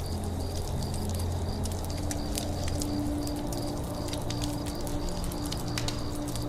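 Wood campfire crackling, with irregular sharp pops and snaps, over a faint high chirp that repeats about three times a second.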